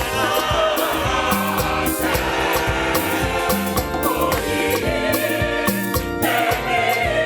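Choir singing gospel music in several parts over a steady beat with band accompaniment.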